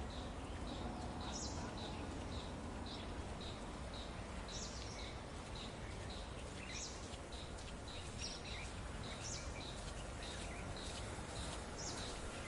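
Outdoor ambience of birds calling over steady background noise: a short high chirp repeats about three times a second, with other sweeping bird calls now and then.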